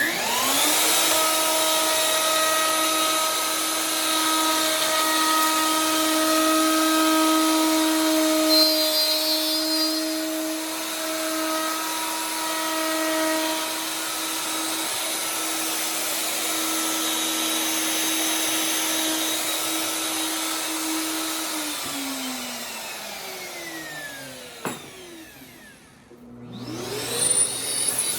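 Festool OF 1400 plunge router with a downcut spiral bit running and cutting a groove in a drawer side, a steady high whine. About 22 seconds in it is switched off and its pitch falls as it spins down. Near the end a motor starts up again with rising pitch.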